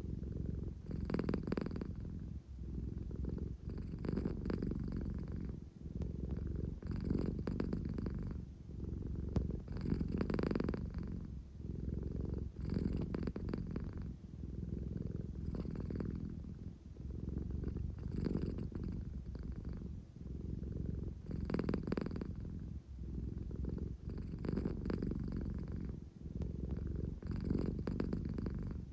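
An American Shorthair cat purring steadily close to the microphone, the low rumble swelling and easing in a slow, even cycle about every three seconds. It is the drowsy, contented purr of a sleepy cat wanting affection.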